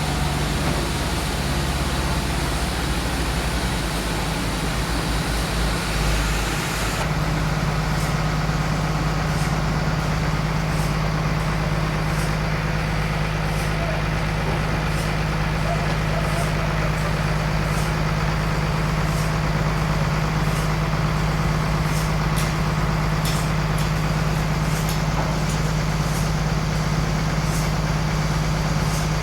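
Sawmill machinery running steadily with a loud engine-like drone. About seven seconds in the hum changes and settles onto one steady low tone, with faint ticking over it.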